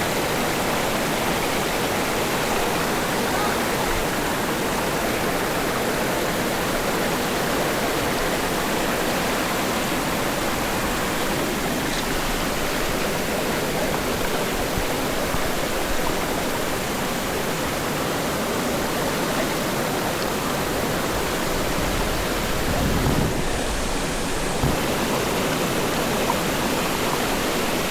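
Steady rush of fast-flowing water, an even full-range noise with no pauses, with a couple of brief low bumps about three-quarters of the way through.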